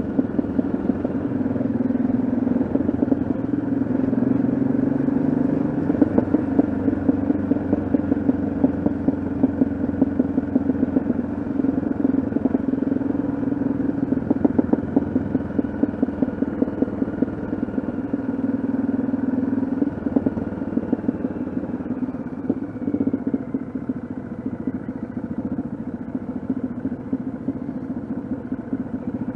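Yamaha XT660Z Ténéré's single-cylinder four-stroke engine running on the move. Its pitch steps and drifts now and then with throttle and gear changes.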